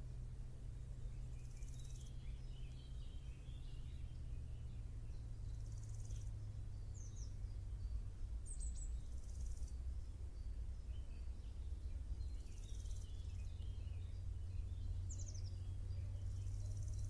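An insect, grasshopper or cricket, stridulating in short high buzzing bursts every three to four seconds, with scattered bird chirps and a few quick high calls over a steady low hum.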